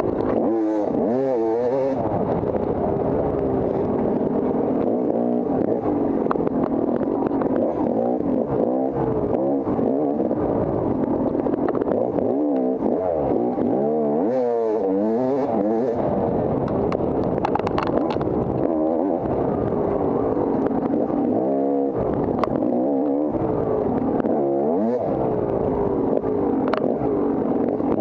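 Off-road dirt bike engine ridden hard, its pitch rising and falling over and over with throttle and gear changes, with scattered sharp clicks and clatter.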